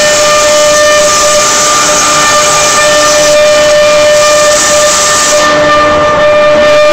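CNC router running: a steady high spindle whine over a loud hiss, whose upper part drops back about three and a half seconds in and again near the end.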